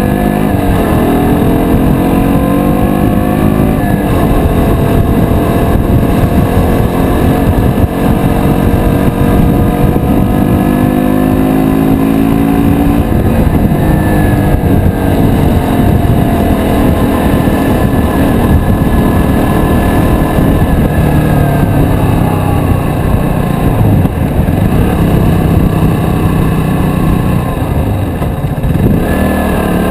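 KTM Duke 125's single-cylinder four-stroke engine pulling through the gears under way. Its pitch climbs under throttle and drops suddenly at an upshift about four seconds in, climbs again, then holds and eases off and on. A steady low wind rumble lies underneath.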